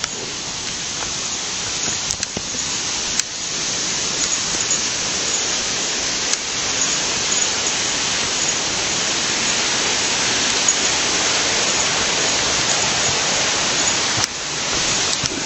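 Rushing water of a small river, a steady even hiss that grows a little louder about three seconds in.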